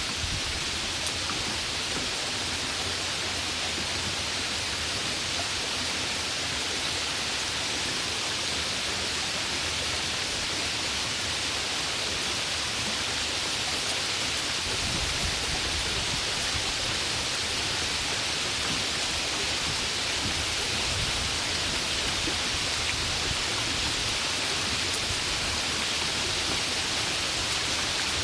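Steady rain, an even hiss that holds the same level throughout with no thunder or separate drops standing out.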